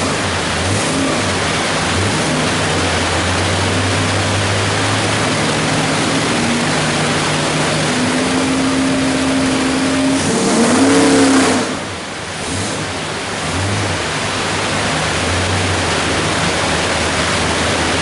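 355 cubic-inch small-block Chevy V8 with a hydraulic roller cam running loud on the engine dyno. Its revs climb in a pull that peaks about eleven seconds in, then the throttle closes and the level drops suddenly before the engine settles back into steady running.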